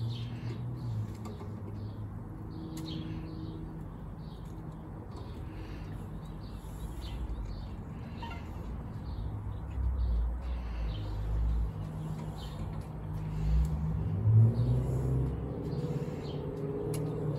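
Birds chirping over a low steady rumble that swells twice in the second half.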